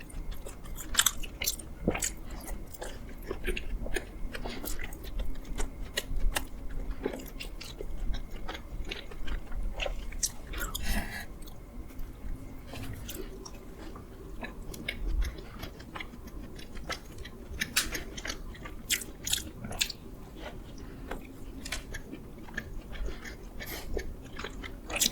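A person chewing and biting into doughnuts close to the microphone, with irregular wet mouth clicks and smacks.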